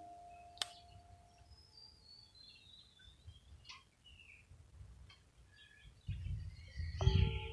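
Faint birds chirping, including a short falling run of notes, while the ring of a Himalayan singing bowl fades out over the first second and a half. Near the end a bowl is struck again and rings with several steady tones.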